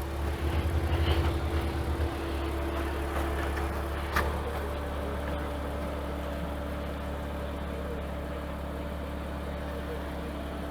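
An engine idling steadily with a low hum, pulsing a little louder for the first couple of seconds. There is one sharp click about four seconds in.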